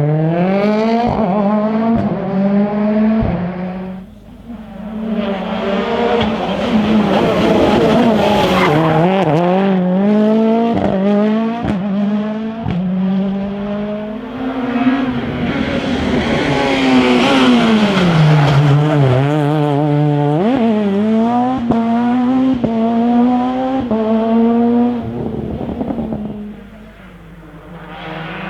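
Rally cars driven hard on a special stage. Their engines rev up in repeated rising sweeps that cut off at each gear change, then drop away under braking, with tyre squeal in the corners. The sound dips about four seconds in and again near the end as one car passes and the next comes through.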